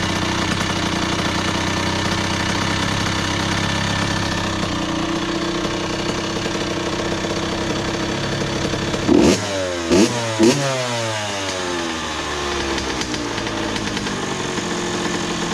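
A 2001 Honda CR80's two-stroke single-cylinder engine idles steadily while its idle speed is being adjusted. About nine seconds in it is revved three times in quick succession, each rev falling back, then it settles to idle again.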